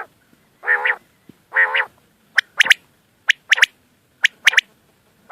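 A bird calling: two drawn-out nasal calls about a second apart, then repeated groups of three short, sharp high-pitched notes, about one group a second.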